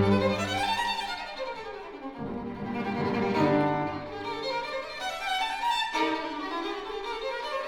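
Classical chamber music led by violin, with cello: a low sustained cello note that stops under a second in, then quick rising and falling runs on the strings.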